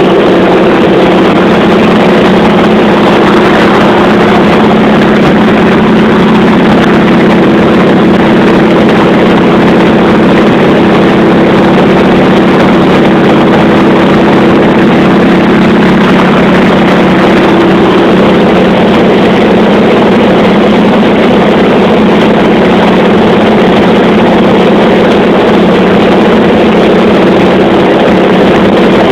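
Radial piston aircraft engine droning steadily in flight, with a constant pitch throughout.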